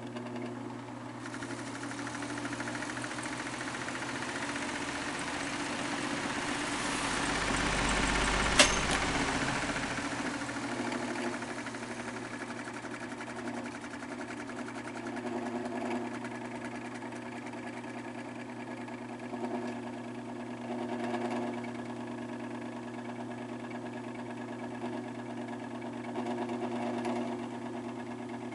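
Electric fan running on badly worn bearings: a steady motor hum under a rough rattling, grinding noise that swells and fades. One sharp click sounds about eight seconds in, at the loudest point.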